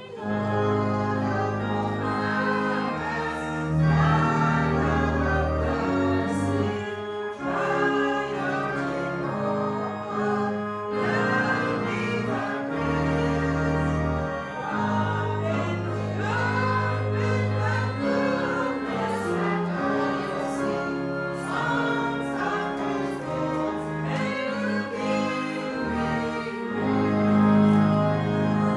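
Choir singing with instrumental accompaniment, long held bass notes underneath, in the style of gospel church music.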